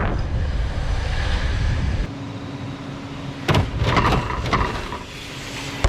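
Wind buffeting the microphone, then about three and a half seconds in a hard impact and rattling clatter of BMX bikes hitting the ramp on a landing, with another sharp thump at the end.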